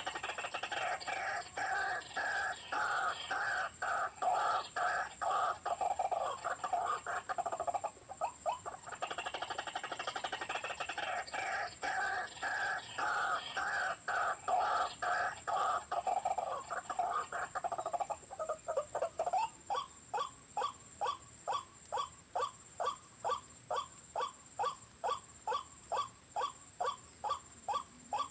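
White-breasted waterhen calls: a long run of rapid, chattering croaks with a short break near the middle, then settling about two-thirds through into an even series of short 'kru-ak' notes, about one and a half a second.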